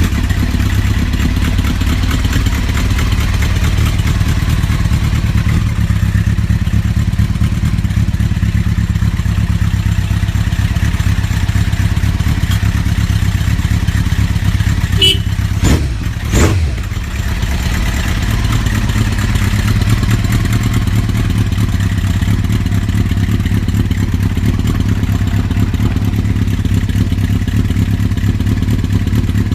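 Kawasaki GPZ900R's inline-four engine running steadily at idle. A couple of sharp knocks come about halfway through.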